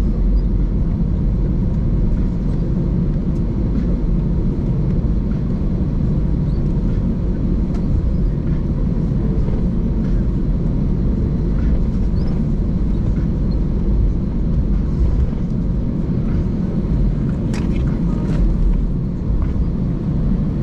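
Steady low rumble inside the cabin of an Airbus A320-200 taxiing after landing, from the idling engines and the wheels rolling. A few light clicks about three-quarters of the way through.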